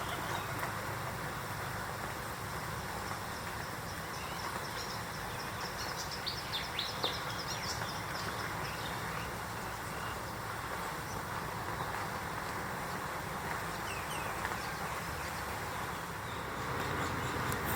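Short, high bird chirps, a cluster of them about six seconds in and a few more later, over a steady low rumbling background noise.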